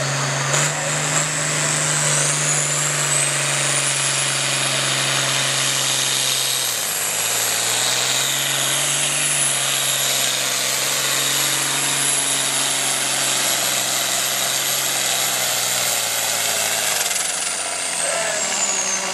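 Farm stock pulling tractor's diesel engine running hard under full load down the track, with a high whine that climbs about two seconds in, holds, and falls away near the end as the pull winds down. The engine note sags briefly about seven seconds in.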